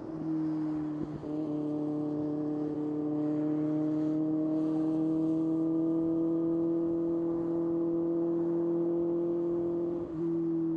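Kawasaki ZX-6R 636 cc inline-four sport bike engine under way, its note climbing slowly as the revs build. The note breaks briefly and drops a little in pitch about a second in and again near the end, as it shifts up a gear.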